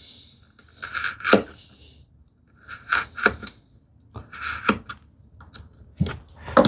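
A wide bench chisel paring wood by hand: four short scraping strokes about a second and a half apart, each with a sharp click.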